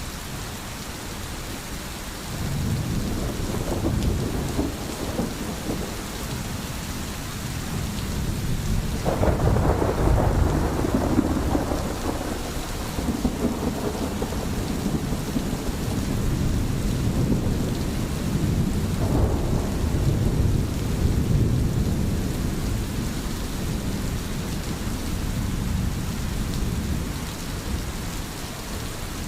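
Steady rain with low rolling thunder that swells several times, most strongly about 9 seconds in.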